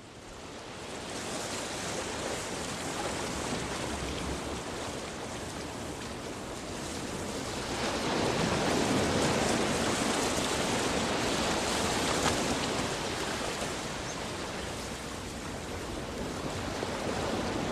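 Steady rushing noise that swells about eight seconds in and eases off again after about twelve seconds.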